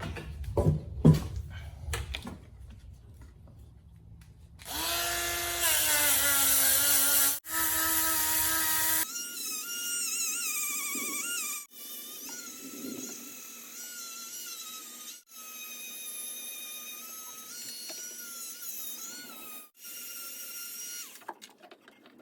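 Chicago Electric variable-speed rotary tool grinding surface rust off a steel motorcycle fuel tank: a whine that wavers in pitch as it bears on the metal. It starts about five seconds in after a few knocks, jumps to a higher pitch a few seconds later, drops out briefly several times and stops shortly before the end.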